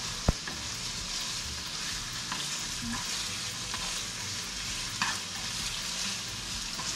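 Chicken pieces stir-frying in oil in a hot pan: a steady sizzle, with a spatula clicking against the pan now and then, sharpest just after the start.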